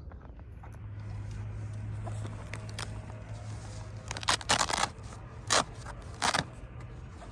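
Four short rustling or scraping handling noises between about four and six and a half seconds in, over a steady low hum.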